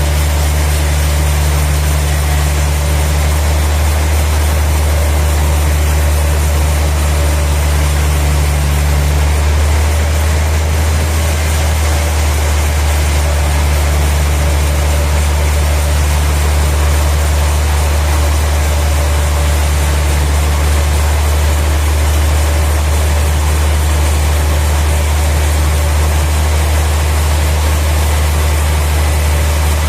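Sawmill machinery running steadily with a loud, low, even drone.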